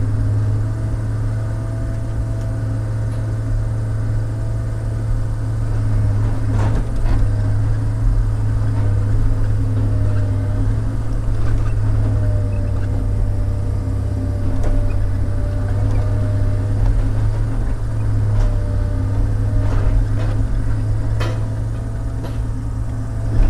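Log loader's diesel engine running steadily under working load, with a steady hydraulic whine that wavers slightly in pitch, and a few sharp knocks as logs are handled.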